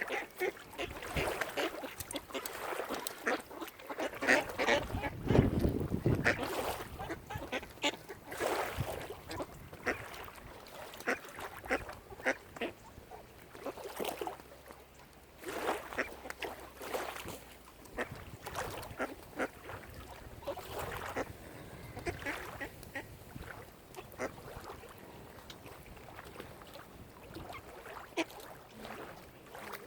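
Waterfowl calling: a run of short, irregular calls, busiest and loudest in the first several seconds and thinning out after.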